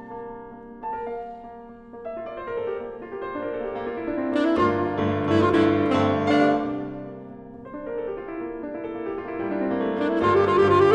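Classical saxophone-and-piano music: a held alto saxophone note dies away early on, then solo piano chords and runs swell to a peak and ebb, and the saxophone comes back in with a rising line near the end.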